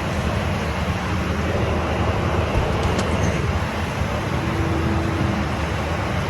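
Steady cabin drone of a Learjet 75 in flight: jet engine and airflow noise with a low rumble, with a light click about three seconds in.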